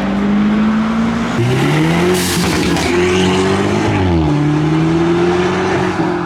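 Modified car engines revving and accelerating hard. The pitch climbs, drops at once about four seconds in as a gear changes, then climbs again. A sharp crack comes about two seconds in.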